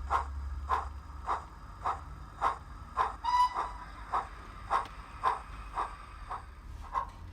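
Digital sound of a Drummond 700 Class steam locomotive played through a model locomotive's small speaker: a steady beat of exhaust chuffs, about one and a half to two a second, with a brief high note about three seconds in.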